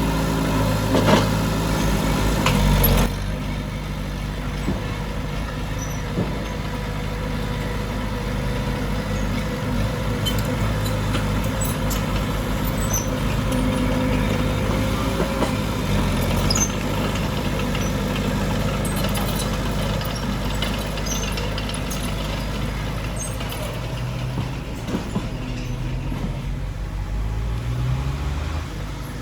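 Diesel engine of heavy earthmoving machinery running under load, its revs rising and falling, with a few short knocks. The sound drops a little about three seconds in.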